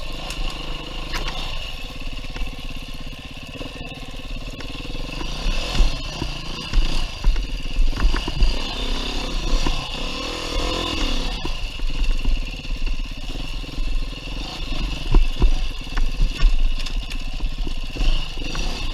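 2019 Beta 390 RR-S four-stroke single-cylinder dirt bike engine running under load as the bike is ridden along a trail, the revs rising and falling repeatedly, most plainly around the middle, with a few knocks and clatter mixed in.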